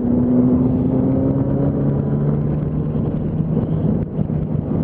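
Yamaha R1 sport bike's inline-four engine running steadily under way, its note drifting slightly higher in the first couple of seconds.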